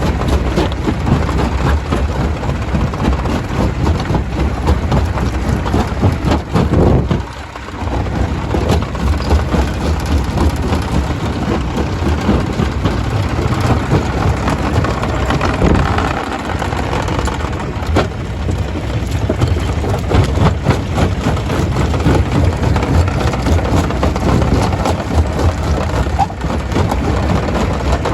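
Stone crusher running and crushing rock, a loud, continuous noise dense with knocks and clatter, briefly easing about seven seconds in.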